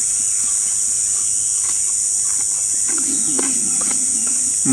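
Steady, high-pitched insect chorus. A short, low voice sound, like a hum or grunt, comes near the end.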